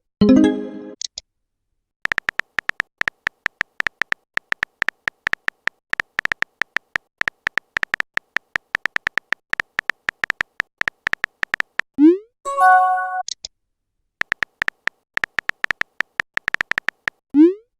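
Rapid typing-click sound effect of a chat app, many short ticks in quick succession with a short pause about two seconds in. About twelve seconds in, a short rising swoosh and a chime sound as a message pops up, then the typing clicks start again.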